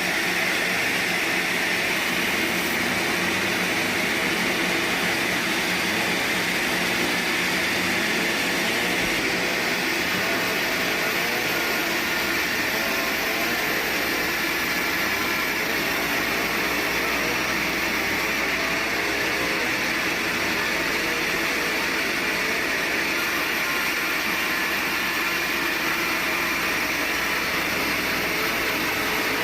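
Sawmill machinery running steadily: a loud, even mechanical noise that neither rises nor falls.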